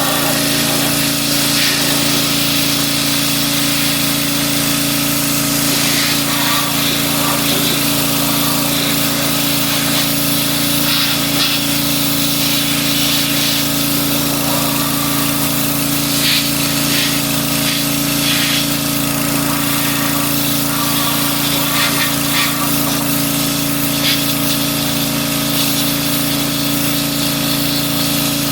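A motor running at a steady speed with a constant hum, with short hissing or scraping noises coming and going over it.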